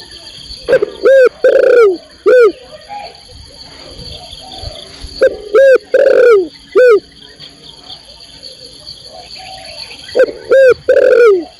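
Spotted dove (tekukur) cooing in three repeated phrases about four and a half seconds apart. Each phrase has two short coos, one longer drawn-out coo and a last short coo. The recording is labelled as a female calling a male.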